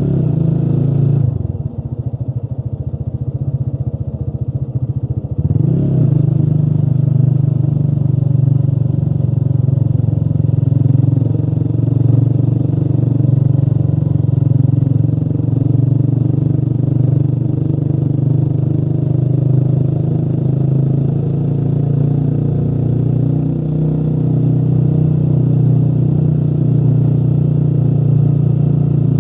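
Motorcycle engine running steadily while riding. It drops back about a second in, rises in revs near six seconds, then holds an even cruise.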